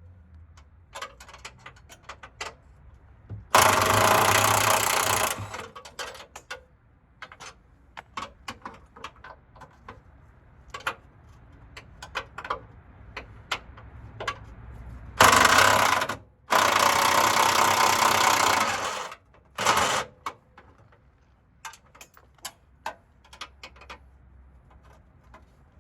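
Handheld power tool run in four bursts of one to two and a half seconds, with light metal clicks and clanks from tools and parts in between.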